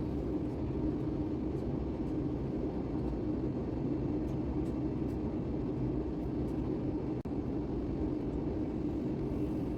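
Steady cabin noise of an Airbus airliner on descent: the low, even rush of engines and airflow heard from inside the passenger cabin, with a brief dropout about seven seconds in.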